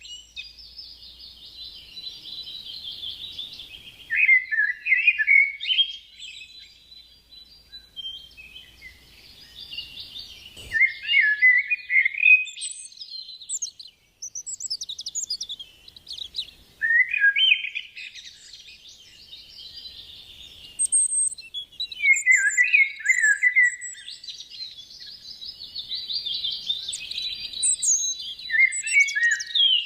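Tame birds chirping and warbling: steady twittering chatter broken every five or six seconds by a louder, quickly rising and falling warbled phrase.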